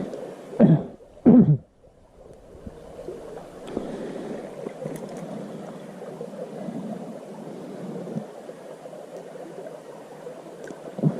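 Two short vocal sounds in the first two seconds, then a steady rush of flowing stream water.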